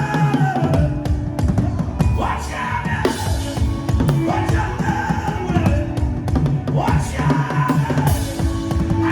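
Music of fast, dense drumming with quick, steady strokes, over sustained pitched notes that now and then slide in pitch.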